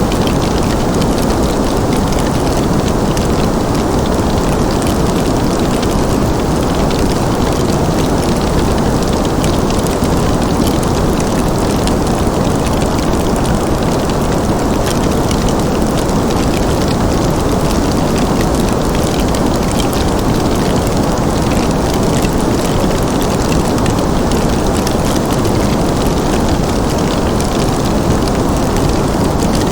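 Crackling wood fire: many small, quick pops and snaps over a steady low rushing noise.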